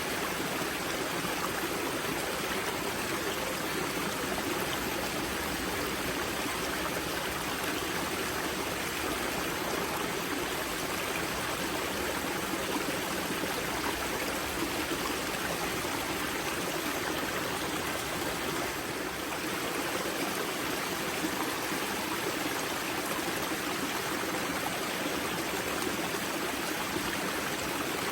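Water of a mountain river spring rushing and splashing over stones, a steady, even flow.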